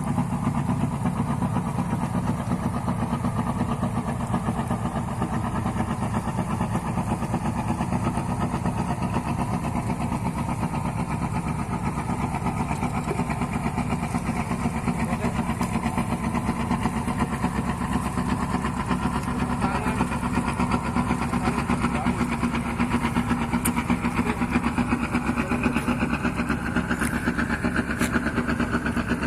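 Fishing boat's engine running steadily with a fast, even pulse, its pitch rising slightly over the last several seconds.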